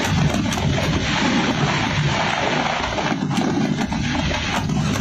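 Fireworks display: many aerial shells bursting at once in a continuous rumble of bangs, with sharper cracks standing out now and then, most clearly from about three seconds in.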